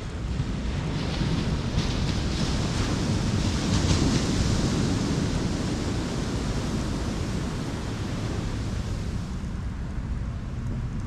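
Ocean surf washing in, swelling to a peak about four seconds in and easing off, with wind rumbling on the microphone.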